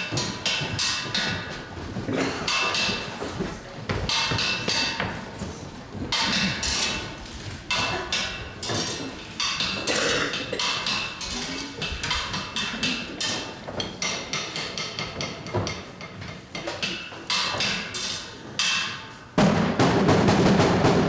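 Live percussion: wood blocks and drums struck in an uneven rhythm, with some ringing tones among the hits. Near the end a sudden, much louder and fuller sound comes in.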